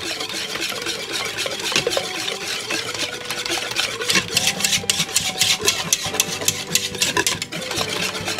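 Waffle batter of butter, sugar and salt being stirred briskly in a bowl, the utensil scraping and clicking against the bowl in a rapid, steady stream, beating the mixture until it turns foamy.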